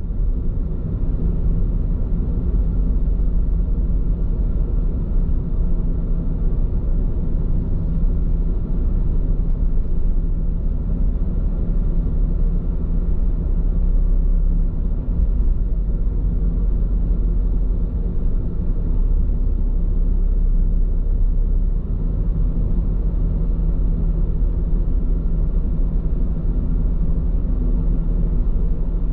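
Steady road and tyre rumble inside a moving car's cabin, running on Bridgestone Regno tyres. It is a continuous low rumble with no marked changes.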